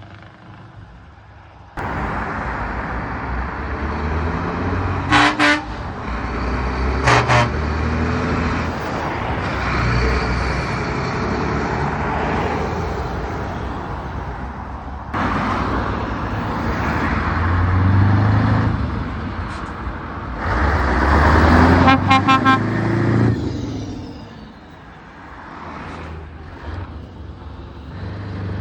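Heavy trucks pulling away under load, their diesel engines revving up through the gears one after another. Two short horn blasts sound about five and seven seconds in, and a quick run of rapid horn toots comes a little past the middle.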